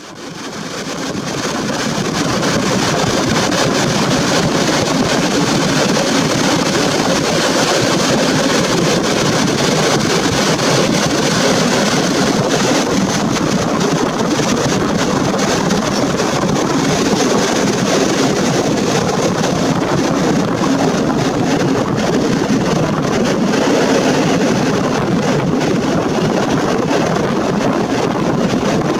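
A passenger train running, heard from an open carriage window: the steady rolling noise of wheels on the rails mixed with rushing air on the microphone. It fades in over the first couple of seconds.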